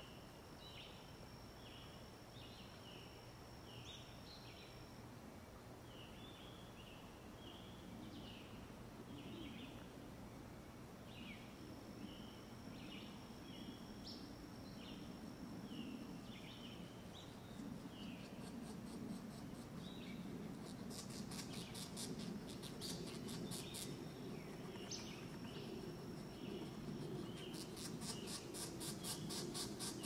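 Short bird chirps repeated irregularly, with a high thin tone on and off. From about halfway a rapid pulsing insect trill joins in and grows louder toward the end.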